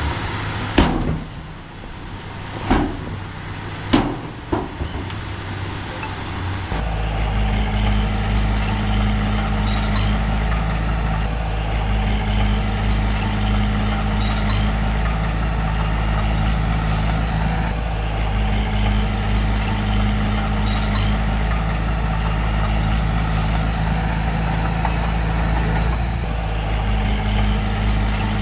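Heavy earthmoving machine's engine. A few sharp knocks in the first few seconds, then, about seven seconds in, a steady low engine rumble takes over with a faint tick every few seconds.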